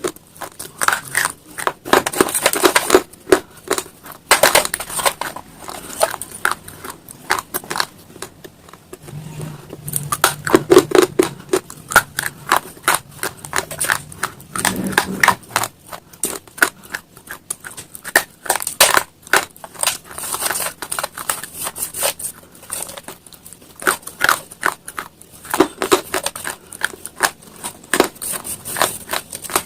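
Close-up chewing of brittle slate stone: a dense, irregular run of sharp cracks and crunches. Around the middle there are a couple of brief low hums.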